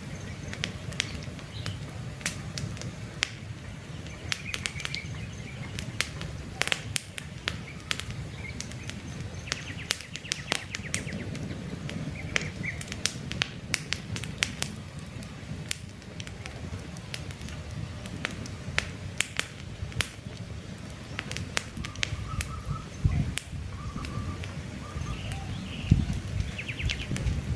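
Wood campfire crackling, with frequent sharp pops and snaps over a low steady rumble of burning logs. Birds chirp now and then in the background.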